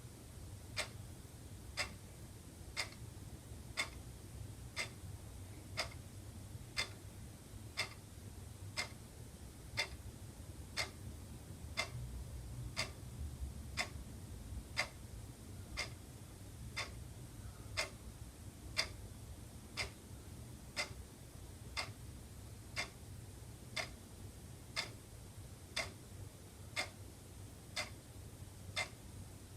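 Wall clock ticking steadily, one tick a second, over a faint low hum.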